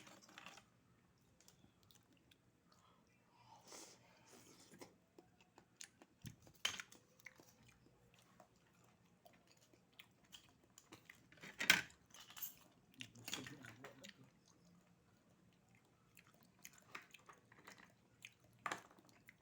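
A person chewing oysters, quietly, with a few sharp clicks scattered through, the loudest about twelve seconds in.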